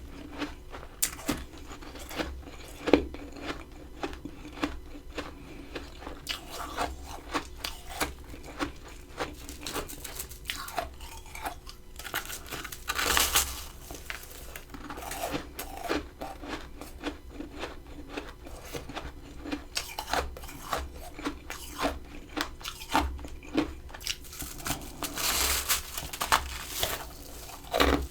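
Close-up crunching and chewing of freezer frost: many small crisp crackles, with a few louder crunches about halfway and near the end.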